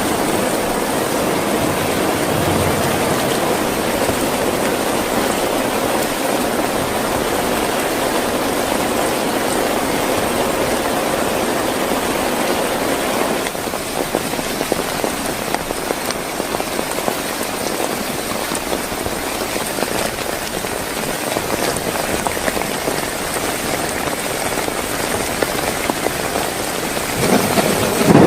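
Heavy rain falling steadily, a dense hiss full of small drop ticks. It eases slightly about halfway through and swells louder near the end.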